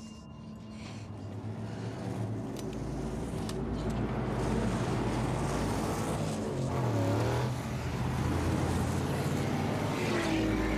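Car engines running and revving on a road, growing louder over the first few seconds, with an engine note dipping and rising again about seven seconds in.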